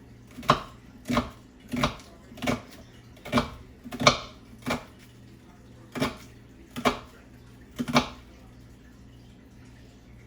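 Knife chopping vegetables on a cutting board: about ten separate, unhurried strokes, a little over one a second, stopping about 8 seconds in.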